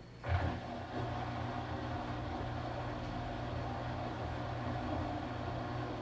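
Washing machine motor kicking in abruptly about a third of a second in, then running steadily with a low hum and a steady mechanical whir.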